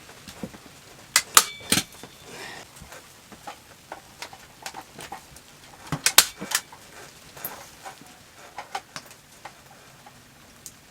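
Scattered sharp clicks and taps of objects being handled, loudest in a quick cluster about a second in and another about six seconds in.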